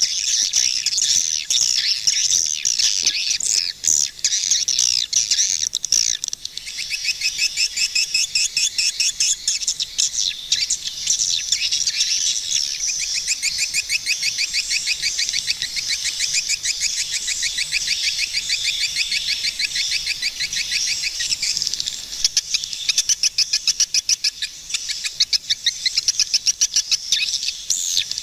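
Swiftlets twittering: a dense, continuous chatter of high chirps repeated rapidly several times a second, with an evenly pulsing run of chirps in the later part.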